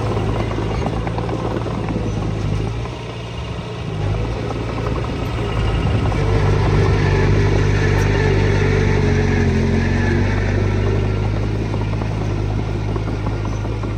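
Diesel engine of heavy earthmoving machinery running steadily, easing off briefly about three seconds in, then pulling harder from about six seconds on.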